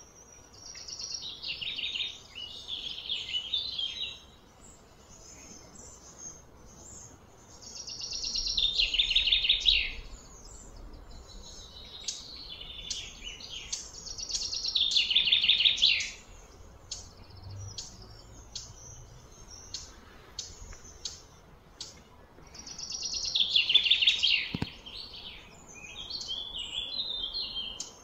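Birdsong: a shrill, high call comes in repeated phrases every six to eight seconds, each swelling over a second or two and then stopping abruptly, with softer chirps in between.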